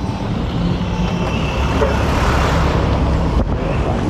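Road traffic: motor vehicle engines running close by, a steady low rumble.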